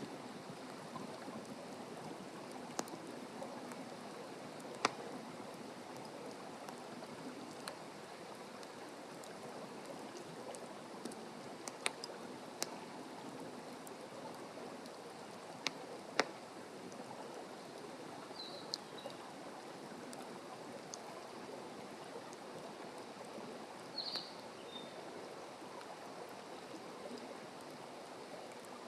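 Wood campfire burning with a steady hiss and scattered sharp crackles and pops. A few short high chirps come in near the end.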